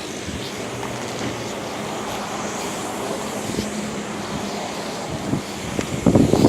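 Steady motor-vehicle noise with a low engine hum, and a louder, ragged noise coming in near the end.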